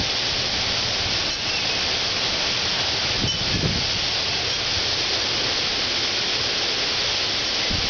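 Heavy rain pouring down steadily in a severe thunderstorm, an even rushing hiss.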